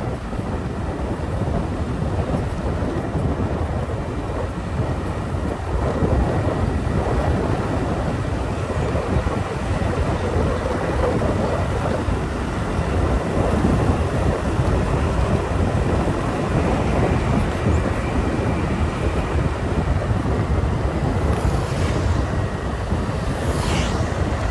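Motorbike on the move: steady wind rushing over the microphone over engine and road noise, with a few brief high hisses near the end.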